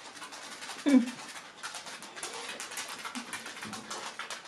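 Close-miked chewing of soft, flaky Yorkshire pudding: many small wet mouth clicks and smacks. About a second in comes a brief, louder hum-like voiced sound from the eater, falling in pitch.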